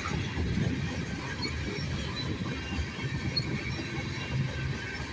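Freight train rolling past, its loaded propane tank cars rumbling over the rails, with a faint high wheel squeal above the rumble.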